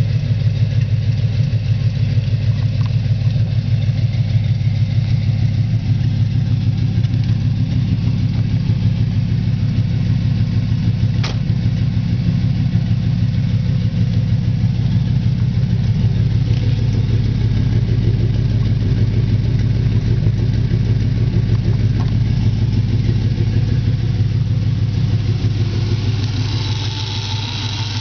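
1994 Chevrolet Impala SS's LT1 V8 idling steadily through budget headers and a Spintech exhaust with pre-axle dumps. Near the end the engine note drops a little.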